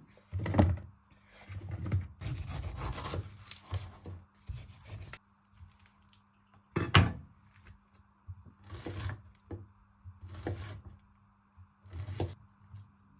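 Kitchen items being handled and set down: a series of separate knocks, with a stretch of rubbing and scraping about two to five seconds in.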